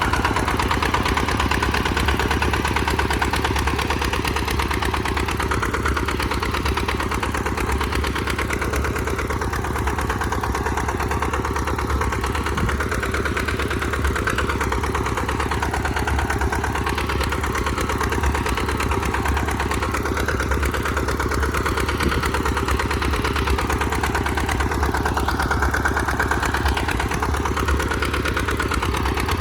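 Tractor engine running steadily at an even speed, with no revving or changes in pitch.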